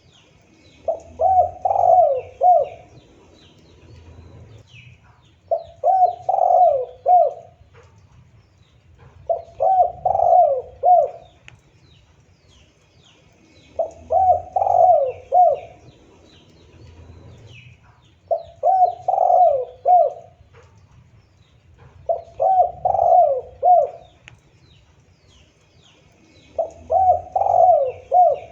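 Spotted dove cooing: seven phrases of about four quick coo notes each, one every four seconds or so.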